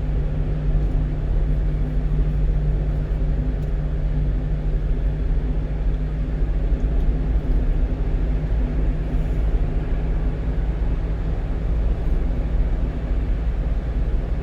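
1-ton truck heard from inside the cab while driving: a steady engine drone with road and tyre noise.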